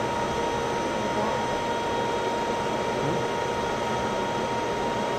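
Steady fan-like hum of air-handling or ventilation, with a thin steady whine above it; no gunshots.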